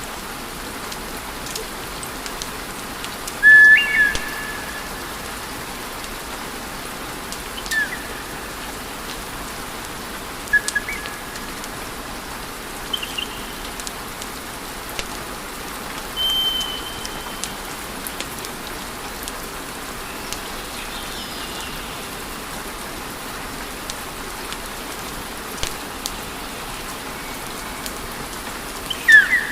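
Wood fire crackling over a steady hiss, with scattered sharp pops and a few short high whistles.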